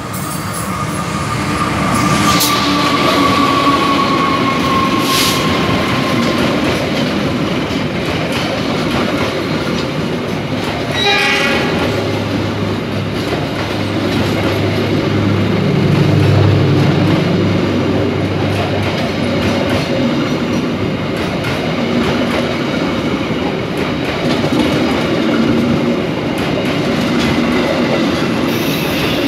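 Diesel-hauled passenger train rolling slowly past close by: a steady rumble of wheels and coaches with clicks over the rail joints. A falling whine over the first several seconds, a short horn-like tone about eleven seconds in, and a deep engine drone that swells and fades around the middle.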